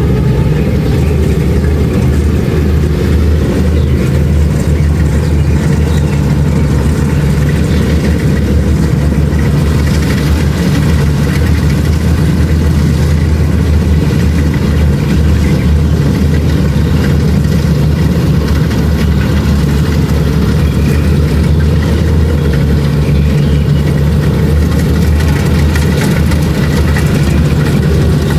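Kubota DC-70 Plus combine harvester's diesel engine running steadily while harvesting rice, with a constant low hum.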